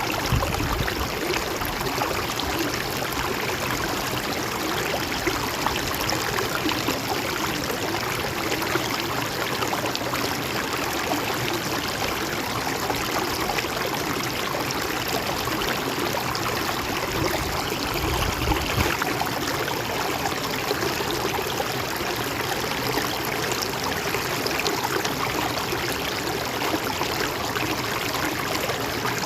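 Stream of water flowing and gurgling steadily over rocks.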